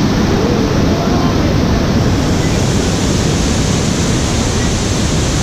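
Waterfall pouring: a loud, steady rush of falling water with no breaks or separate events.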